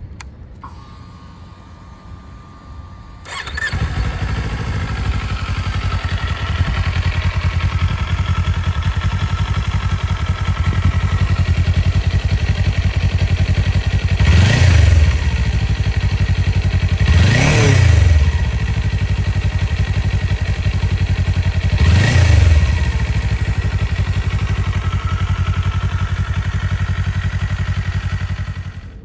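An engine starts about three seconds in and settles into a steady idle. It is revved briefly three times, then shut off near the end.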